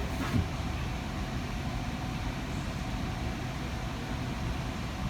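Steady low hum and rumble of an Alstom Citadis Spirit light-rail car standing at a station with its doors open, the train's equipment running at rest. A short knock about half a second in.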